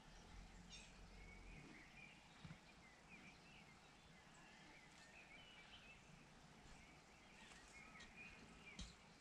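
Quiet outdoor background with faint, scattered bird chirps and twitters. There is a low rumble for the first second or so and a single soft knock near the end.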